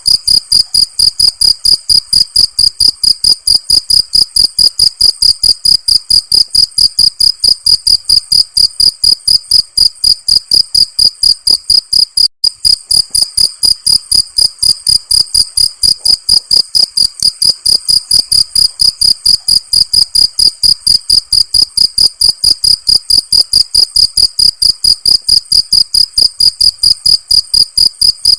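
Crickets chirping in a fast, perfectly even train of short, high-pitched pulses, with a momentary break about twelve seconds in.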